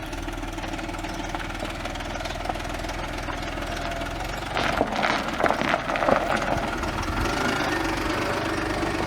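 Audi A8 D3 engine idling with a knocking clatter that makes it sound like a diesel. The knock comes from the rebuilt cylinder head and is suspected to be a failed VVT cam phaser. A short burst of louder, sharper sounds comes about five to six seconds in.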